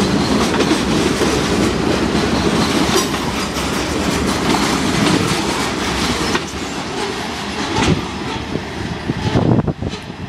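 Freight train cars, covered hoppers and tank cars, rolling past close by: a steady rumble with wheels clacking over the rail joints. The sound eases off over the last few seconds as the cars move away.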